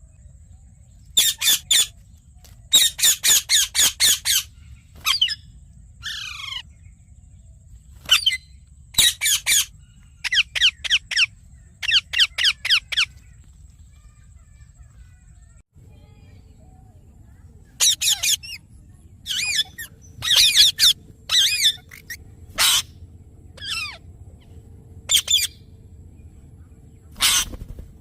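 Yellow ringneck parakeet giving loud, harsh squawking calls in quick runs of several, with pauses between runs; one call near the start glides downward in pitch.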